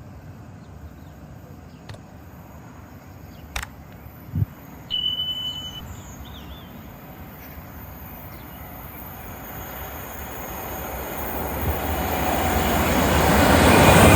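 A train approaching on the main line, its rumble rising steadily over the last few seconds. Earlier, against a quiet background, come a few sharp clicks and a brief steady high whistle-like note.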